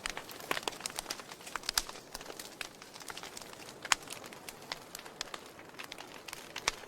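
Wood fire burning in a fireplace: irregular crackles and pops over a soft hiss, with two sharper pops, one a little under two seconds in and one about four seconds in.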